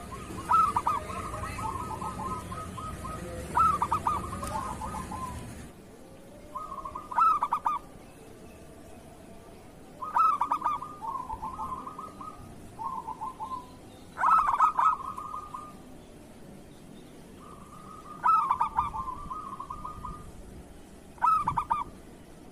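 Zebra dove (perkutut) cooing in repeated phrases, each opening with a quick stuttering burst and running into a steadier coo, about eight phrases a few seconds apart. A low background hum drops away about six seconds in.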